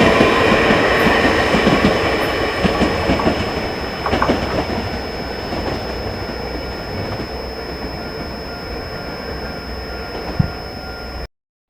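A train running through the station, its wheels clattering over the rail joints, loudest at first and fading as it moves away. The sound cuts off abruptly near the end.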